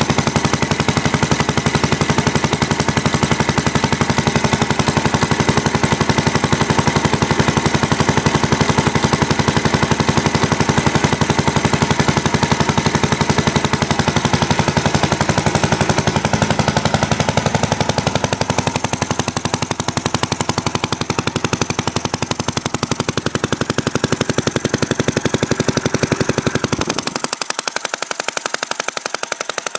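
Old Villiers stationary engine driving a centrifugal water pump, running steadily with a rapid, even firing beat. Near the end the deep part of the sound drops away suddenly and the running goes on a little quieter.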